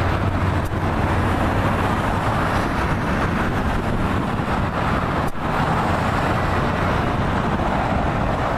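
Steady engine noise: an even, rushing roar that holds level throughout, with no distinct events.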